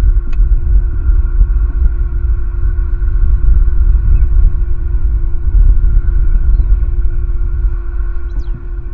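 Wind buffeting the nest camera's microphone: a loud, unsteady low rumble over a steady electrical hum. A few brief, faint high bird chirps sound through it.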